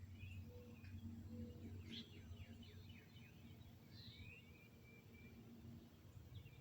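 Faint songbird chirps and calls: a quick run of falling chirps about two seconds in, then a whistled note and a slurred call near four seconds, over a low steady hum.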